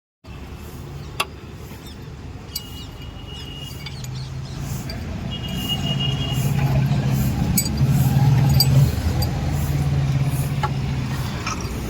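A vehicle's engine runs with a steady low hum, growing louder from about four seconds in and easing off near the end. Two short high-pitched tones sound in the first half, along with a few sharp clicks.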